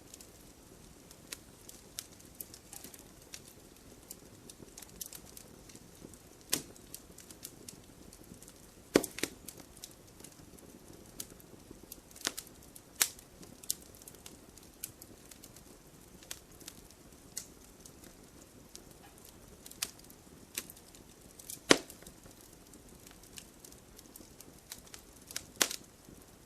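Wood fire crackling, with irregular small snaps over a low steady hiss and louder pops now and then, the loudest about 22 seconds in.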